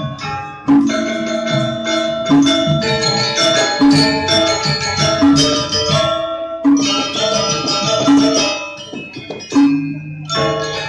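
Balinese gamelan gong kebyar playing: bronze metallophones struck in fast, dense ringing patterns, with a strong accent about every second and a half.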